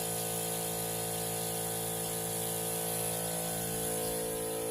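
A steady machine hum at a constant pitch, with no breaks or changes.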